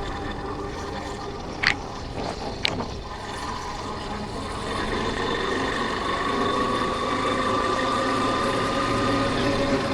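Single-cylinder engine of a Yamaha Factor 150 motorcycle running on the road, heard from the rider's camera, rising gradually in level and pitch from about halfway as it speeds up. Two short sharp sounds come near the start.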